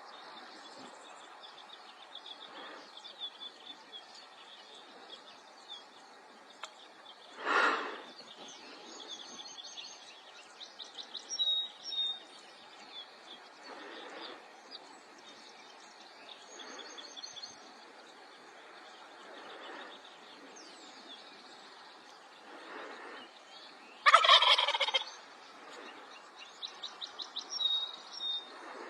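Turkey gobbling several times, the loudest gobble lasting about a second near the end, with small birds chirping faintly in between.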